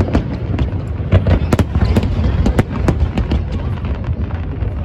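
Aerial fireworks going off continuously: rapid sharp bangs and crackles, several a second, over a constant low rumble of bursts.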